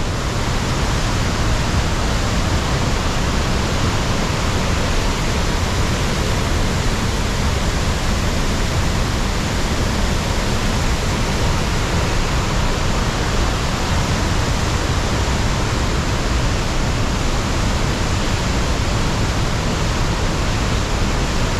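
Waterfall running high after steady rain: a loud, steady rush of falling water.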